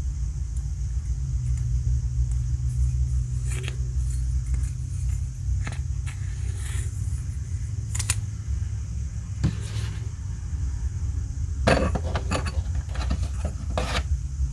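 Small hard parts and packaging of a sixth-scale collectible figure being handled: scattered light clicks and rattles, most clustered about two thirds of the way in, over a steady low hum.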